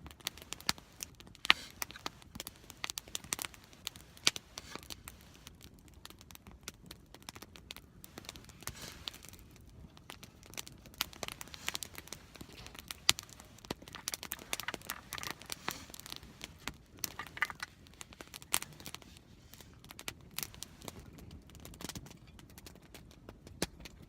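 Wood campfire crackling, with many irregular sharp pops and snaps and a few stretches of softer rustling.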